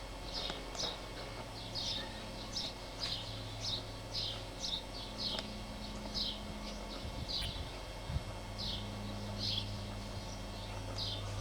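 A bird chirping repeatedly: short, high, downward-slurred chirps, about two a second and often in pairs.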